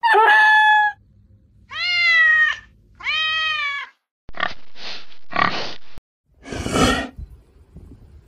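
A run of animal calls. First a short call, then two drawn-out, meow-like calls that rise and fall. Then a pig grunts and squeals in several short, rough bursts, the last near the end being the loudest.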